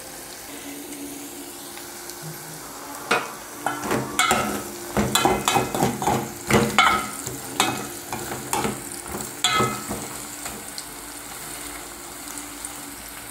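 Chopped chayote and onion sizzling in oil in a metal pot, with a steady hiss. From about three seconds in until about ten seconds, a spoon stirs the pieces, giving a run of clicks and scrapes against the pot.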